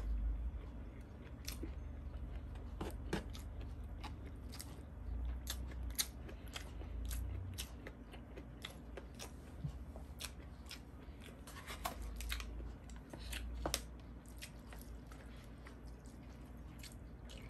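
A person chewing and biting food close to the microphone, with many short, sharp clicks at irregular moments.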